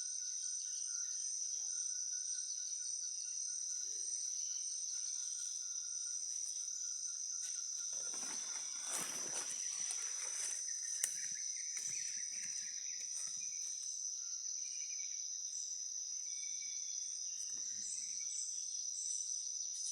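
A steady, high-pitched drone of rainforest insects, with a fainter steady trill lower in pitch. About eight seconds in there is a brief rustle, and about eleven seconds in a single sharp click.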